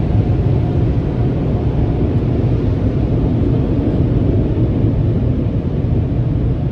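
Steady low rumble heard from inside a car's cabin, even in level throughout.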